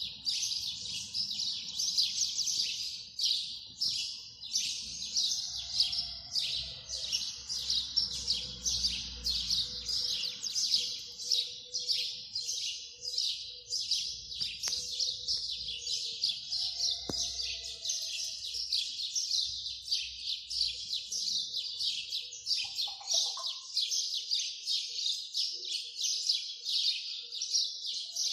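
A dense chorus of small birds chirping and twittering, with many short, high calls overlapping without a break.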